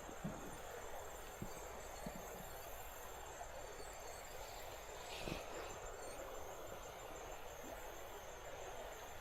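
Faint, steady outdoor ambience with a thin, unbroken insect drone high in pitch, and one faint brief rustle about five seconds in.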